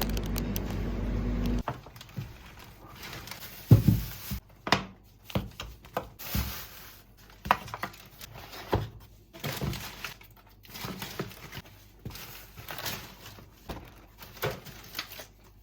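A steady low rumble that cuts off abruptly after about a second and a half, followed by irregular knocks, taps and light clatter of objects being handled, with the sharpest knock about four seconds in.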